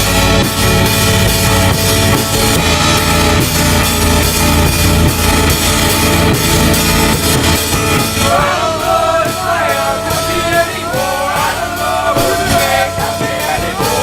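Loud rock band music with drum kit and guitars; a singing voice comes in about eight seconds in.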